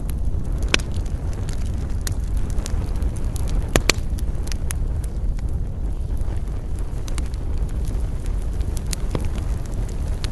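Wood campfire crackling, with frequent sharp pops and snaps over a steady low rumble of burning; the loudest pop comes a little under four seconds in.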